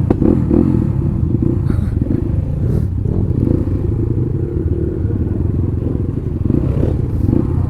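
Motorcycle engine running, loud and steady.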